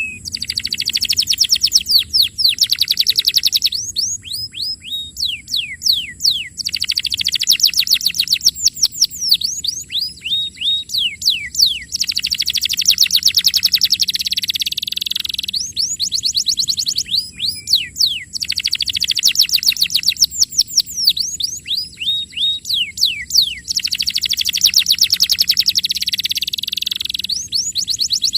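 Domestic canary singing a continuous song. Fast rattling trills of rapidly repeated high notes alternate every few seconds with phrases of clear notes that each slide steeply down in pitch.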